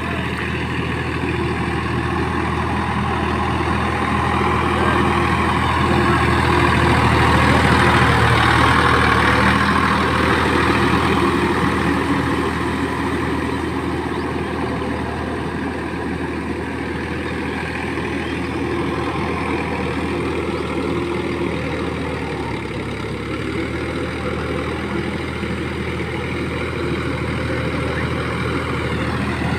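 Tractor engine running steadily, getting louder around eight seconds in, with its note dropping a little about twenty-two seconds in.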